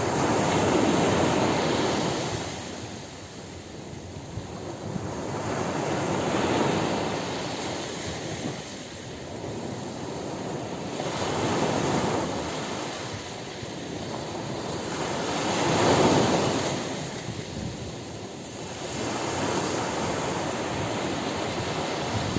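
Ocean surf on a beach: waves break and wash up the shore, the hiss swelling and fading four times, roughly every five seconds.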